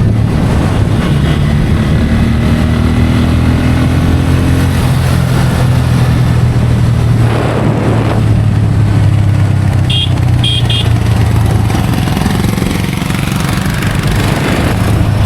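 Bajaj Pulsar N160's single-cylinder engine running at a steady cruise on the highway, heard raw from the bike with wind and road noise. A brief rush of passing traffic comes about seven seconds in, and three short high-pitched beeps come about ten seconds in.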